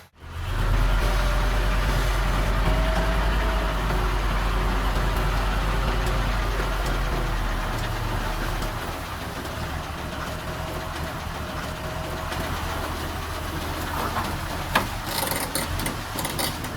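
Heavy construction machine's diesel engine running with a steady low rumble that eases off about halfway through. A single sharp click sounds near the end.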